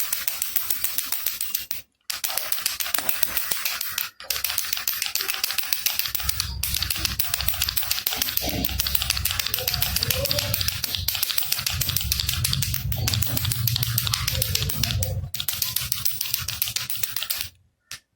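Baby rattle shaken fast and steadily, its beads making a dense, rapid clicking, with brief breaks about two and four seconds in and again near the end.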